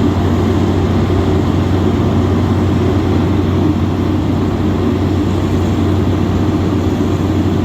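Jet airliner engines running with a loud, steady rumble.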